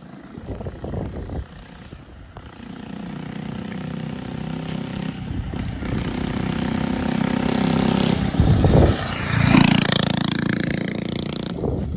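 Coleman CT100 mini bike's small single-cylinder engine running through a loud aftermarket exhaust, growing steadily louder as the bike comes closer, loudest about eight to ten seconds in, then dropping away suddenly near the end.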